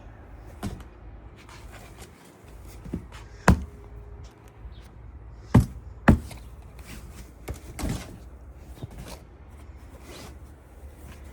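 A few scattered sharp knocks and clunks of household objects being handled, the loudest about three and a half seconds in and a pair of close knocks near six seconds.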